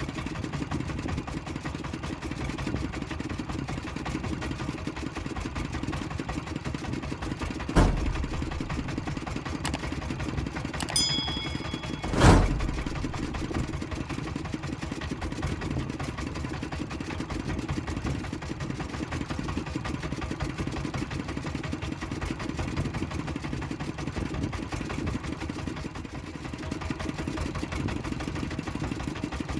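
Engine on a small crab-fishing boat running steadily, with two sharp knocks, about eight and twelve seconds in.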